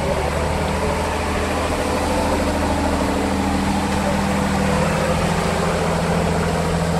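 Heavy off-road trial truck's diesel engine running steadily, its note edging up slightly a couple of times.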